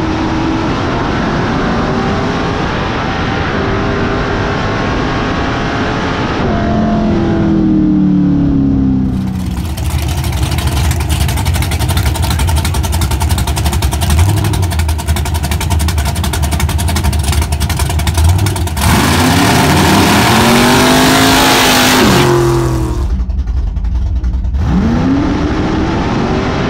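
Drag race car's engine revving in the lanes, its pitch climbing and falling in several blips. Through the middle there is a long, harsh stretch of loud engine noise, and another rev rises near the end.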